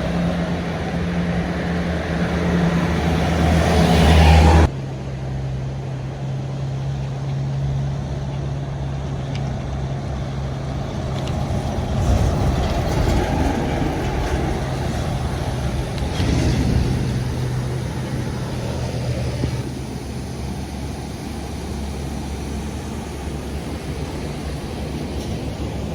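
Motor vehicle engines and road traffic running steadily. The engine noise builds over the first few seconds, cuts off abruptly, and a steadier, lower engine hum continues with a couple of brief swells as traffic passes.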